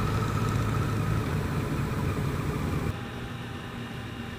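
Yamaha FJR1300 motorcycle engine running steadily at cruising speed with wind and road noise, easing a little in level about three seconds in.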